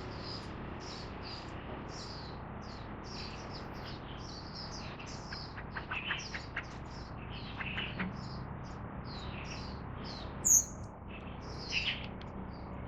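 Wild birds chirping: a steady series of short, high chirps, about two to three a second, with one louder, sharper call about ten and a half seconds in.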